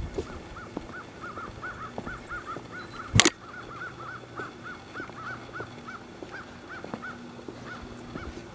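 A bird calling over and over in short, arched chirps, several a second, with faint footsteps beneath. A single sharp knock about three seconds in is the loudest sound.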